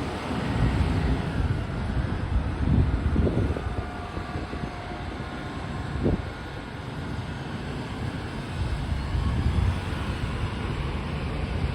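Steady low rumble of road traffic, with faint steady tones over it.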